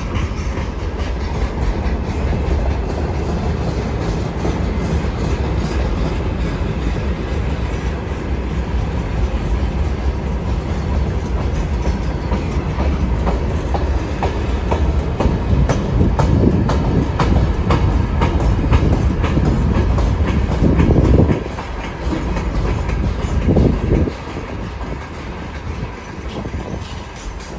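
Freight train of tank cars and container flat wagons rolling past, a steady low rumble with the wheels clicking over rail joints. The rumble grows louder past the middle, then drops off sharply twice in the last few seconds.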